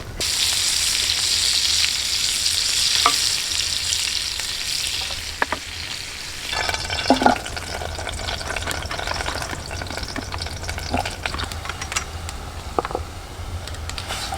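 Food frying in a hot pan: a sizzle that starts suddenly and eases off after about six seconds, with scattered short clicks.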